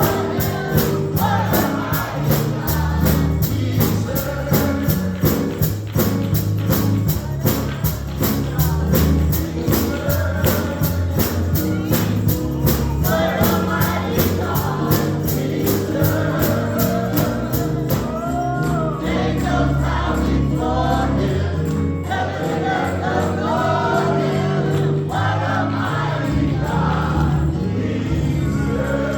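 Gospel choir singing with band accompaniment, a steady high percussion beat keeping time until it drops out about two-thirds of the way through.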